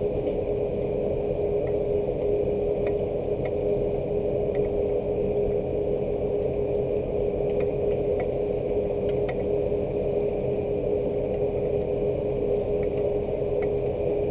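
A steady low mechanical hum with a constant tone, like an idling engine or running machinery. Scattered faint ticks of raindrops fall on it here and there.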